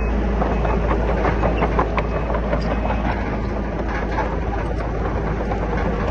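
Komatsu D31PX crawler bulldozer's diesel engine running steadily, with a continual irregular clatter of steel track links and rock.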